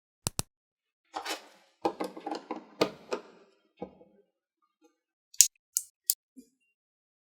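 Plastic LEGO pieces being handled and snapped together. A short rustle comes first, then a run of rattling clatter, and then three sharp clicks near the end.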